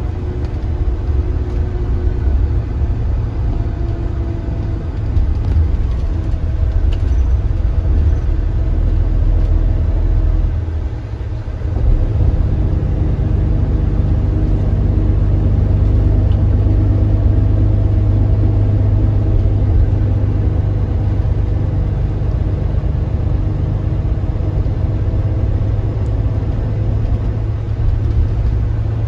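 Kia Granbird Sunshine coach engine running under way, a steady low drone. It dips briefly about eleven seconds in, then runs on steadier.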